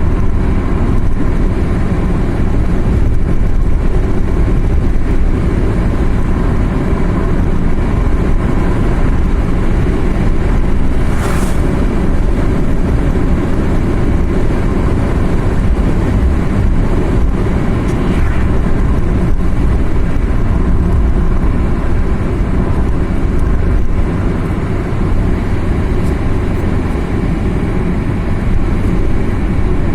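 A car driving along a road, heard as a steady low rumble of engine and tyres. A brief hiss cuts through about eleven seconds in.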